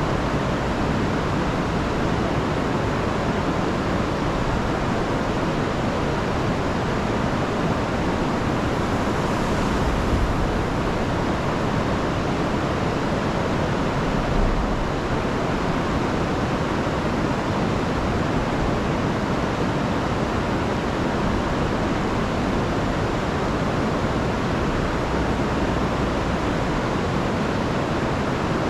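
River in flood after heavy rain, its water rushing over falls in a steady, even roar, with a couple of brief low thumps partway through.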